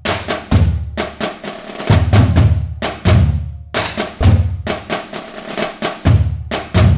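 Drumming: a steady rhythm of sharp, bright strokes over deep low hits.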